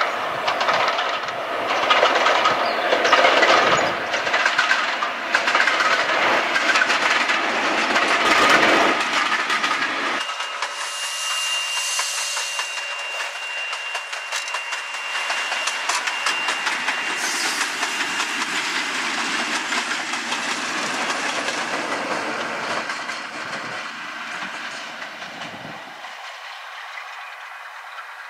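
Locomotive-hauled passenger train passing, wheels clattering over the rail joints. About ten seconds in, the sound changes abruptly to a Class 88 locomotive hauling coaches past with a steady high whine for several seconds. It fades near the end.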